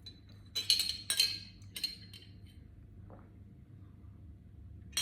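Glassware clinking: a quick cluster of sharp chinks with a ringing tone in the first two seconds, then one faint clink about three seconds in.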